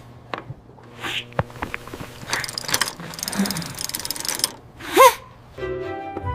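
Mechanical clicking and a ratchet-like rattle, a short rising-then-falling squeak about five seconds in, then soft music coming in near the end.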